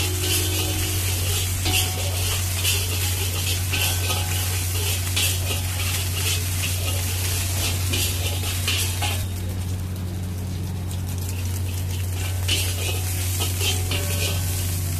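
Egg and chicken sizzling on a hot flat griddle while a metal spatula repeatedly scrapes and chops across the surface. The spatula strokes die down for a few seconds past the middle, then pick up again. A steady low hum runs underneath.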